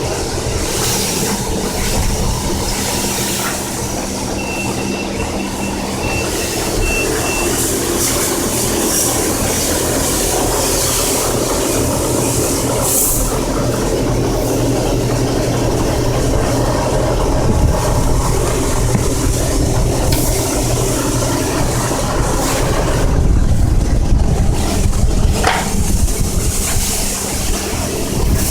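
Self-serve car wash high-pressure pump running with the spray wand hissing water onto a car, a steady hum under a loud spray. A short run of high beeps sounds a few seconds in.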